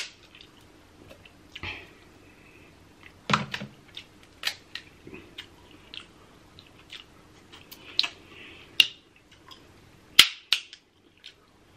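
Close-miked eating of snow crab: chewing and mouth sounds with irregular sharp clicks and snaps from the shell. The loudest snap comes about ten seconds in.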